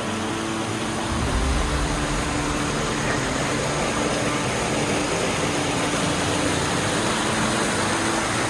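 Steady rush of a waterfall pouring from a cave, an even hiss of falling water, with a deeper low rumble joining about a second in.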